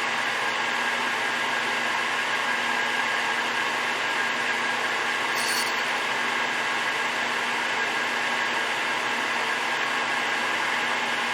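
Takisawa TSL550 engine lathe running steadily with an even whir, turning during a rough cut on the 40 mm outer diameter. A short high hiss comes about five and a half seconds in.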